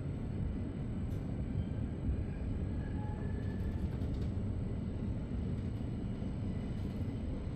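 Steady low rumble of a Zürich S-Bahn DPZ double-deck train on the move, heard from inside a passenger coach, with faint high whines and light clicks over it.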